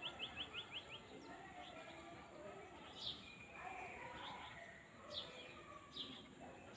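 Small birds chirping in the open countryside: a quick run of short, high, falling notes in the first second, then single chirps every second or two. A faint lower-pitched murmur runs underneath.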